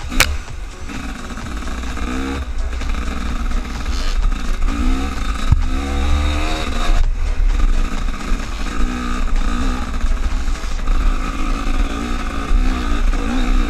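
An engine revving up and down over and over, with heavy wind rumble on the microphone and a sharp click just after the start.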